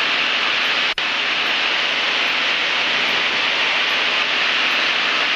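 Steady loud static hiss on the aviation radio channel between ATC transmissions, with a brief dropout about a second in.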